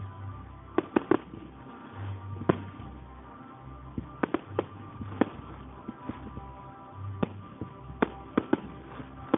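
Fireworks exploding in irregular sharp bangs, several in quick clusters, over music played on loudspeakers.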